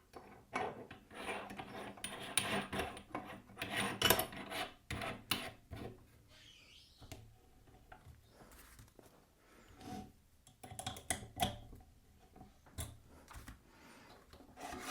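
Metal drill bits and a wooden block being handled: rubbing and scraping of metal against wood, with irregular knocks and clicks.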